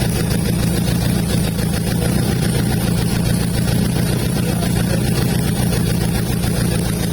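Honda CB92's small air-cooled parallel-twin four-stroke engine idling steadily, on a motorcycle that is partway through restoration.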